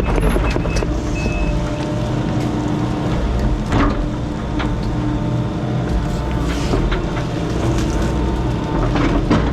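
Excavator diesel engine running steadily under load as the machine pushes against a small tree. There are a few short high beeps in the first second or two, and a couple of sharp knocks, one about four seconds in and one near the end.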